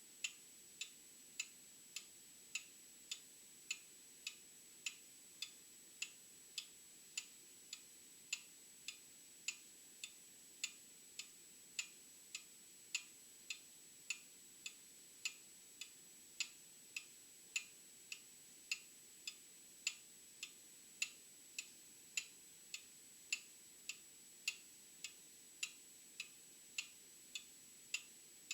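Old mechanical clock ticking steadily, about one and a half light, sharp ticks a second, some louder than others.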